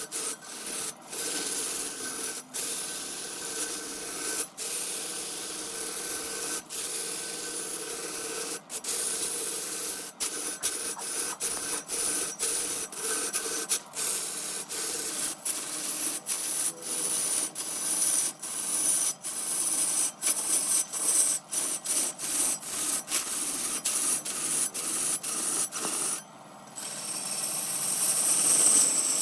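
Wood turning on a lathe: a cutting tool or abrasive rubbing against the spinning wood, making a continuous scraping hiss broken by many brief gaps. After a short pause near the end it comes back louder and brighter.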